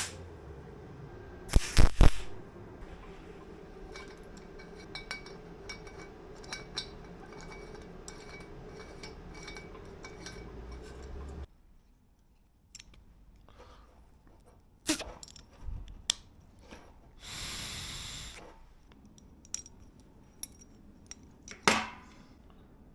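Workshop handling noise: scattered metal clinks and knocks of parts and tools, the loudest a quick cluster about two seconds in, with a brief hiss of about a second near the end.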